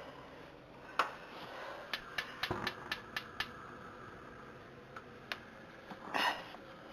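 Kitchen clicks and clatter: a single click, then a quick run of about eight sharp clicks, a few more later, and a short rustle near the end.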